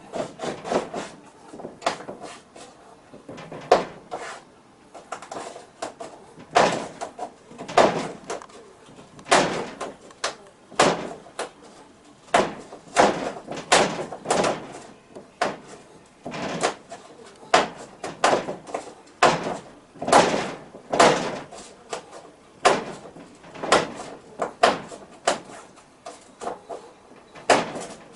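Repeated knocking and rattling thumps at an irregular one or two a second, like a door being struck or shaken over and over.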